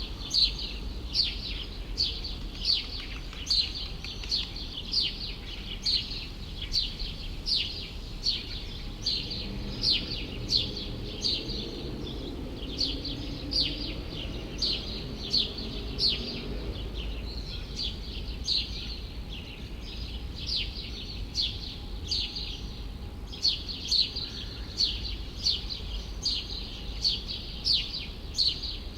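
A bird calling over and over in short, downward-sweeping chirps, about one to two a second, fainter for a few seconds past the middle and then resuming. There is a steady low city rumble underneath.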